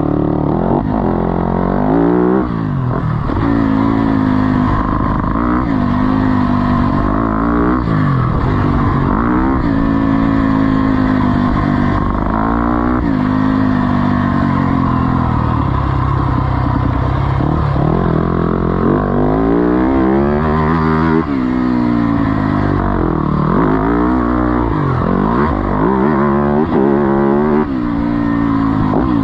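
Yamaha four-stroke single-cylinder motocross engine revving hard and dropping off over and over, its pitch climbing through each burst of throttle and falling away between them. About halfway through it holds a steadier, lower note for a few seconds.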